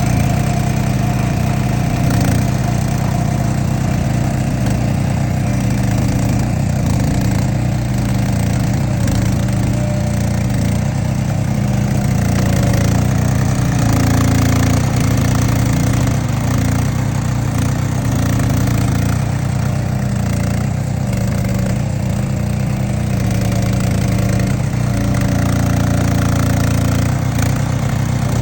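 Small engine of a Baumech digging machine running steadily just after being started, with slight shifts in engine speed.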